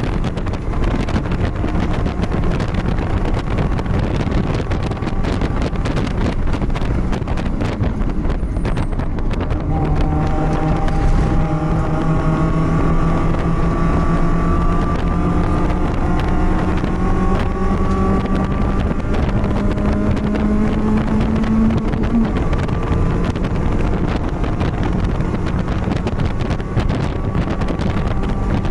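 BMW race car engine heard onboard under heavy wind and road noise. Its note climbs slowly and steadily for about twelve seconds, as on a long pull in a high gear, then drops suddenly about three-quarters of the way through.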